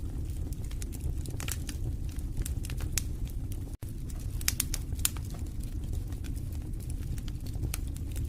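Wood fire burning in a fireplace: irregular sharp crackles and pops over a low steady rumble of the flames, with a momentary dropout a little under four seconds in.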